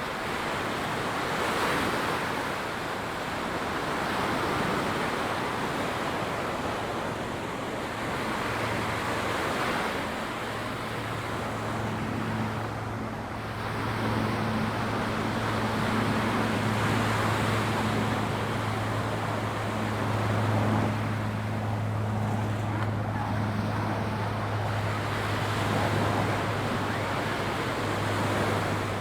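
Ocean surf washing onto a sandy beach, swelling and easing every few seconds. About eight seconds in, a steady low engine hum joins it and keeps going.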